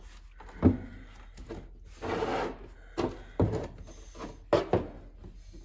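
Parts and tools being handled during a tractor transmission teardown on a workbench: several sharp knocks as pieces are set down, and a brief scraping slide about two seconds in.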